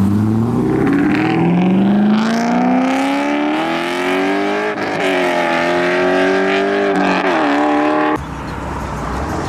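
Chevrolet Corvette C5 Z06's LS6 V8 accelerating hard, its pitch climbing steadily, dropping at a gear change about halfway through, then climbing again. Its sound cuts off suddenly near the end, leaving a quieter steady car sound.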